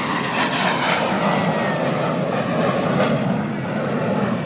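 Airplane engine running loudly, with a faint whine that falls slightly in pitch.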